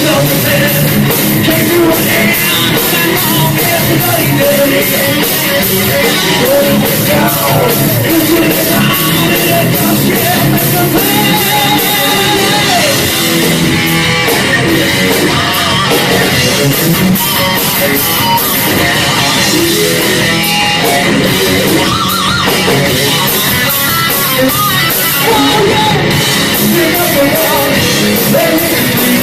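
Live heavy metal band playing loud: distorted electric guitar lines over bass and fast drums, in an instrumental stretch of the song.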